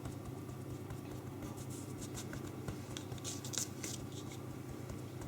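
Soft rustling and brushing of hands pressing and shaping a ball of mushroom-and-flour mixture into an oval patty on a floured work surface, over a steady low hum.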